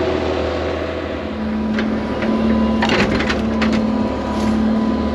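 Heavy diesel machine running steadily with a low hum, while branches and brush snap and crack in a few short bursts, most around the middle, as the bulky brush load is crushed down.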